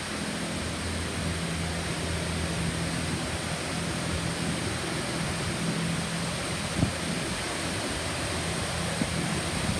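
Automatic car wash spraying water onto a car: a steady, even hiss over a low machinery hum, with short knocks about seven and nine seconds in.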